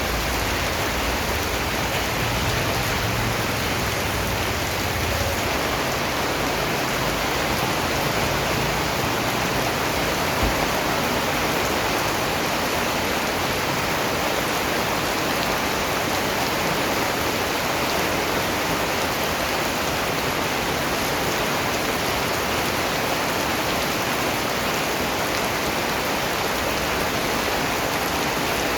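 Steady rain falling and pattering on a surface, an even, unbroken hiss of many drops, with one faint knock about ten seconds in.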